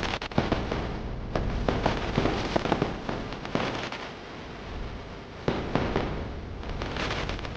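A rapid, irregular series of sharp pops and bangs over a steady low rumble.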